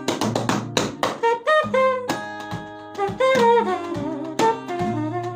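A man imitating a saxophone with his mouth, playing a melodic line of bending, sliding notes over backing music with sharp percussive taps.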